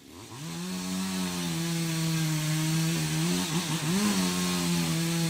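Chainsaw revving up and then running at high speed at a steady pitch. The pitch dips briefly and recovers twice, about three and four seconds in, and the sound cuts off abruptly at the end.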